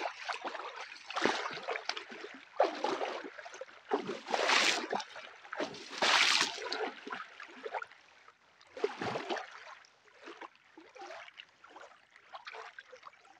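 Water lapping and sloshing in irregular surges a second or two apart, loudest in the first half and calming near the end.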